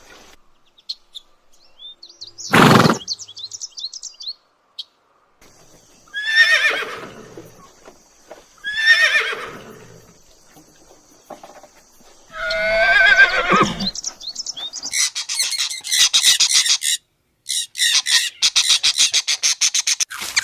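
A series of separate animal calls: two falling horse whinnies and a longer call after them, then rapid high-pitched chirping that runs into the end.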